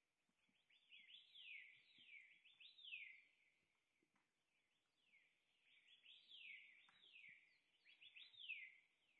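Faint bird song: two runs of quick, high whistled notes, each sliding down in pitch, several a second.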